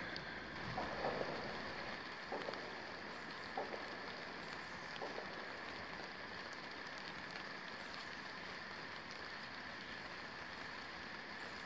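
Steady hiss of light rain falling on forest vegetation, with a few faint knocks and rustles in the first few seconds.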